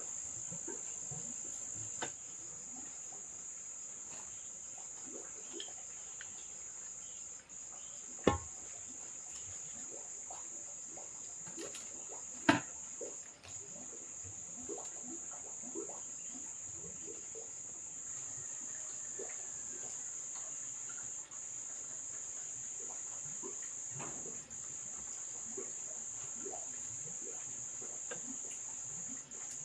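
Steady, high-pitched insect chorus of crickets or similar insects, with scattered small clicks and two sharp knocks a few seconds apart in the first half.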